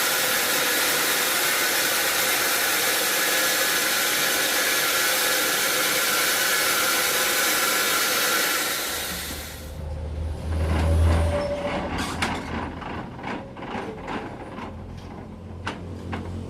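Sawmill saw cutting through a large mahogany log, a loud, steady noise that cuts off about nine seconds in. After it, a low engine rumble continues with scattered knocks and clicks.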